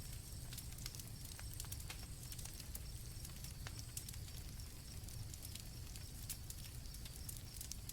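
Campfire crackling softly, with scattered sharp pops over a low steady rumble, and crickets chirping faintly high above it.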